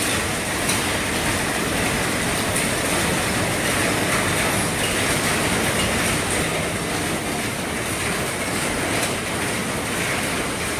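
Heavy rain drumming steadily on an RV roof.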